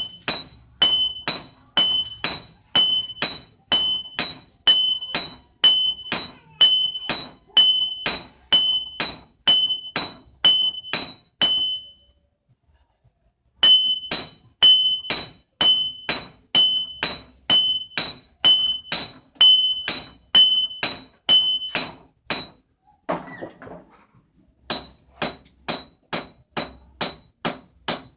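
Blacksmith's hand hammer striking leaf-spring steel on an anvil, about three ringing blows a second. The hammering stops for a moment about twelve seconds in, then goes on, with a short scraping sound between runs about twenty-three seconds in.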